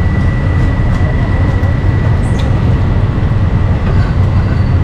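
A steady low rumble with a thin high whine held throughout.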